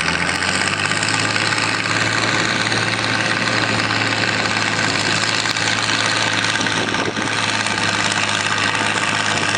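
Antique tractor engine running hard and steady under load during a pull, at an even pitch with no breaks; the announcer believes it is an old flathead engine.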